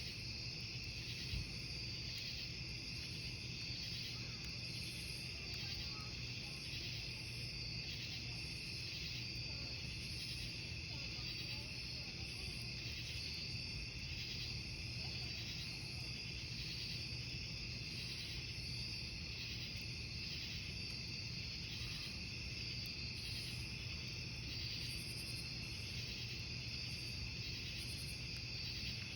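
Crickets chirping in a steady, even rhythm, roughly one and a half chirps a second, over a wood campfire burning with a low steady sound and a few faint crackles.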